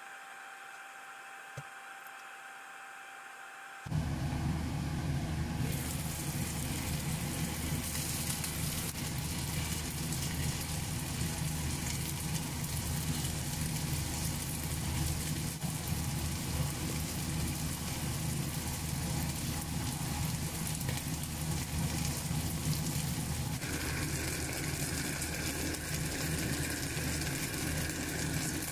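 Pan-fried pork buns (sheng jian bao) sizzling in oil in an uncovered frying pan, a steady frying hiss over a low hum. It starts suddenly about four seconds in, after a quieter stretch with a faint steady tone.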